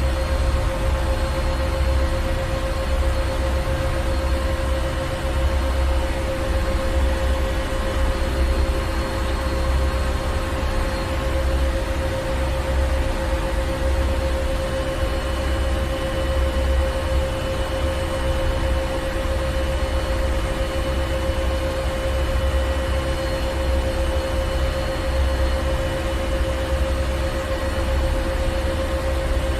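Ship engine room: heavy machinery running steadily, with a deep rumble pulsing below a constant hum and hiss.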